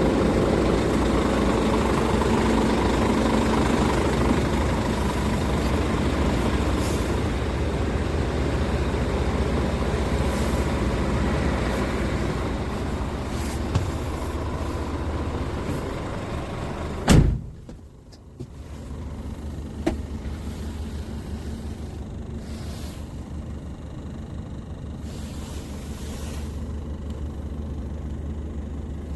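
Scania R440 truck's 13-litre inline-six diesel running at idle with a steady low hum. A single sharp thump comes a little after halfway, after which the engine is heard more faintly.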